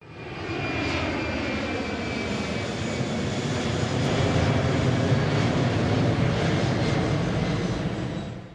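Airplane engine noise: a steady, dense rushing sound with faint whining tones that fall slightly in the first couple of seconds. It fades in at the start and drops out just before the end.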